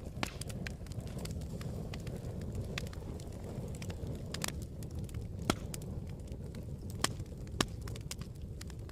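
Campfire burning with a steady low rumble and irregular crackles and sharp pops, a few of them louder about halfway through and near the end.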